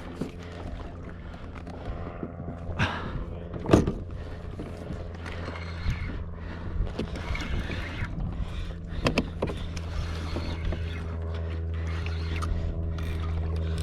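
Water sloshing and splashing around a kayak, with a few sharp knocks against the hull, the loudest about four seconds in, over a steady low hum.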